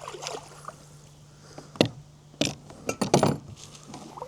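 Kayak being paddled: a few sharp knocks of the paddle against the hull, the loudest a cluster a little past halfway, with light water sounds from the blades.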